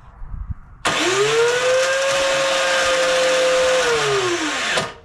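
The electric starter on an MTD snowblower's 179cc four-cycle engine runs for about four seconds. It whines up in pitch as it spins up, holds steady, then winds down after the button is released. The engine does not catch, which is typical of a machine that has sat with old gas.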